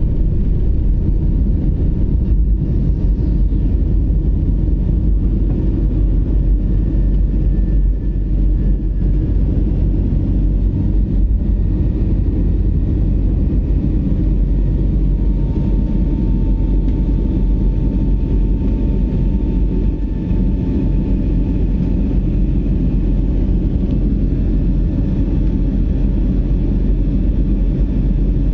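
Cabin noise of an Airbus A320neo's Pratt & Whitney PW1127G geared turbofans at takeoff power with airflow, a loud steady low rumble. A faint steady whine sits above it through the middle stretch.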